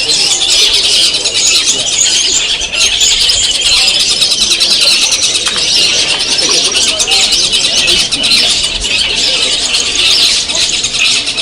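Many caged long-tailed shrikes (cendet) singing and chattering at once, a dense, continuous high-pitched chorus of rapid calls and mimicry, with a faint murmur of voices beneath.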